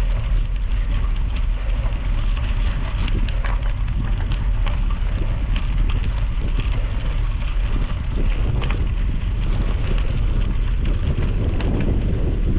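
Wind buffeting the microphone, with a steady rumble and a dense crackle of bicycle tyres rolling on gravel.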